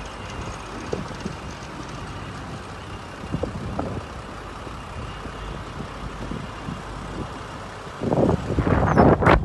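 An engine running steadily with a low rumble. About eight seconds in, a louder rushing, buffeting noise comes in.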